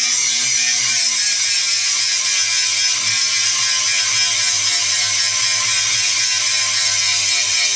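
Angle grinder grinding steel: a continuous, loud, harsh hiss with a steady motor whine that shifts slightly in pitch as the disc loads and unloads.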